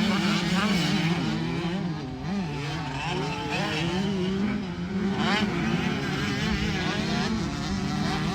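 Several 85cc two-stroke motocross bike engines revving hard as they race around the track, their pitches repeatedly rising and falling and overlapping.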